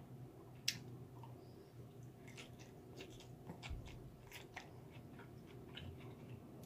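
Close-up chewing and mouth sounds of someone eating a spoonful of rice-and-vegetable sushi bowl: soft, scattered wet clicks and smacks, with one sharper click just under a second in. A faint steady low hum sits underneath.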